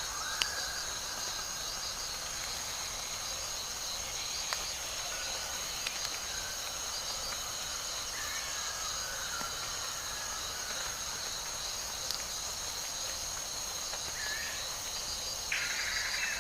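Tropical rainforest insect chorus: a steady, high-pitched buzzing and trilling of cicadas or crickets, with a few faint bird calls and some sharp clicks, the first about half a second in.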